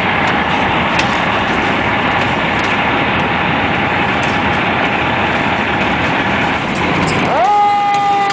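Loud, steady rushing vehicle noise, then about seven seconds in a fire engine's siren starts up, rising quickly in pitch and then holding a steady tone.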